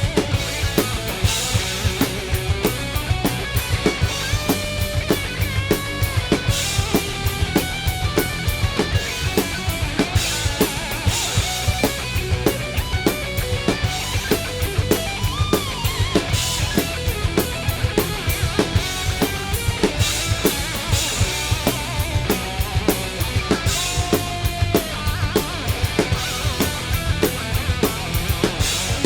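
Drum kit played hard along to a recorded heavy metal song: fast, steady bass drum and cymbal hits under distorted guitars, with a lead guitar line bending up and down in pitch.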